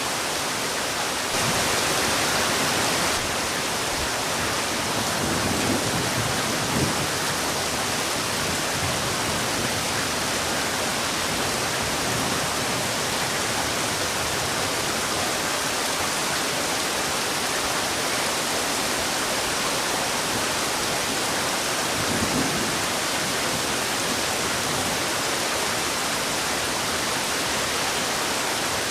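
Heavy rain falling, a dense steady hiss, slightly louder for about two seconds near the start.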